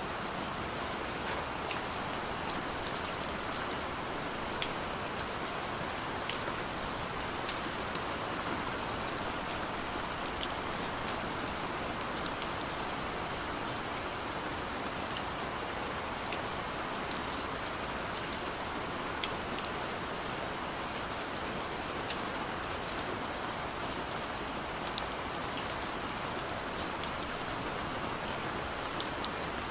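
Gentle rain falling steadily, a constant hiss with scattered individual drops ticking on a surface.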